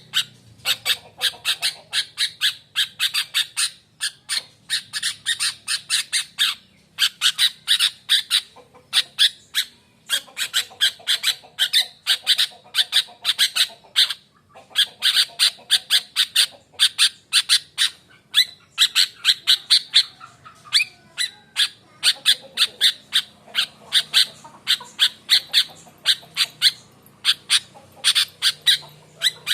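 Sooty-headed bulbul (kutilang) calling in rapid runs of short, harsh chattering notes, about four to five a second, broken by brief pauses. This is a provoking call track of the kind used to get quiet bulbuls to answer.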